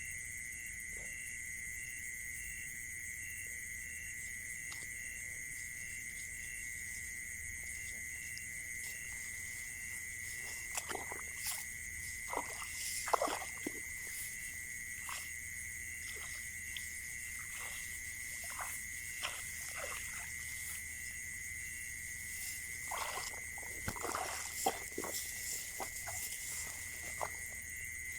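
A steady outdoor chorus of insects and frogs: one continuous high trill with a regular pulsing note just above it. From about ten seconds in, short scattered clicks and knocks come and go over it.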